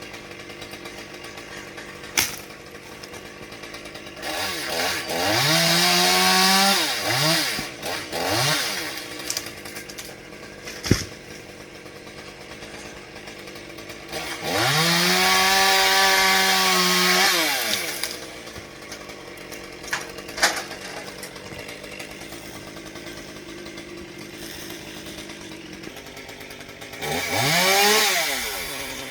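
Chainsaw idling, opened up to full throttle several times: a cluster of short revs, one longer held run, then a final rev near the end, each rising in pitch and falling back to idle. A few sharp knocks sound between the runs.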